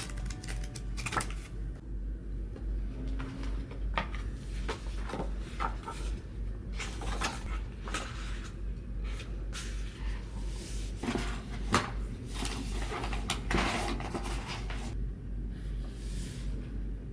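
Light clicks and knocks of household objects being handled, irregular and scattered, over a steady low hum.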